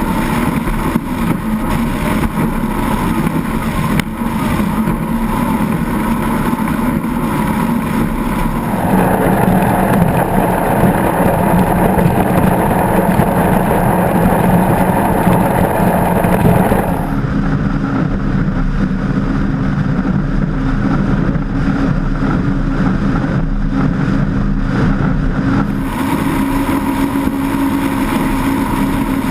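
A 36-foot Skater performance catamaran running under way: a steady engine drone mixed with wind and water rush. The sound shifts in character about nine seconds in, goes duller about seventeen seconds in, and brightens again near the end.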